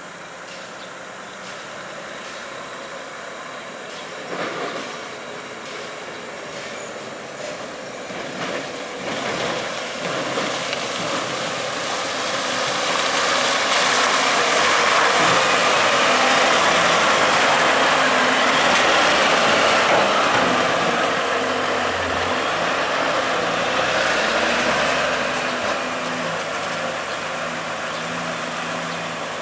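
Heavy tractor-trailer truck driving past, its engine and tyre noise building to a peak around the middle and then fading.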